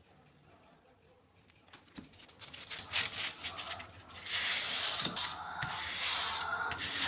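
Knife blade scraping against an abrasive sharpening surface: faint quick ticks at first, then louder rasping strokes from about the middle on.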